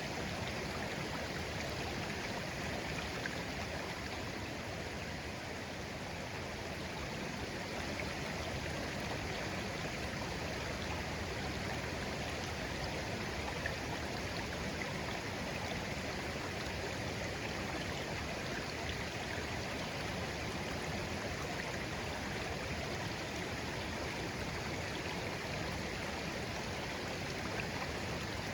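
A shallow stream flowing gently and steadily, with continuous babbling and light gurgles.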